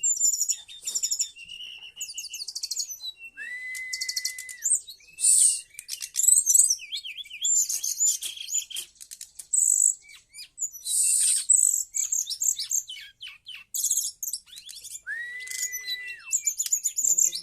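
Brown-chested jungle flycatcher (SRDC) singing a rapid, varied song of high chirps and trills. Twice it holds a long steady whistle, once a few seconds in and once near the end.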